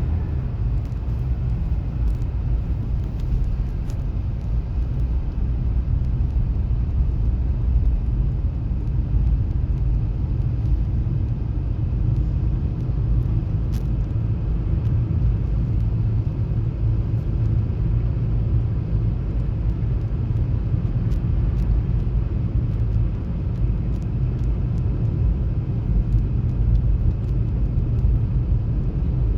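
Steady low rumble of a car in motion, heard from inside the cabin, with a fainter hiss of tyre and road noise above it and a few faint ticks.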